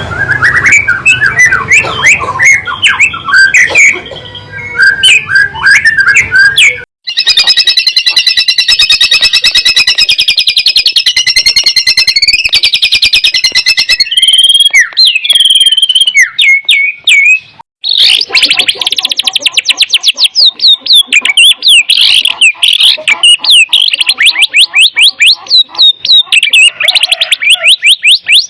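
White-rumped shama (murai batu) singing loudly in full song. Varied whistled phrases come first, then long runs of very rapid repeated trilling notes, broken by two abrupt cuts, about 7 and 18 seconds in.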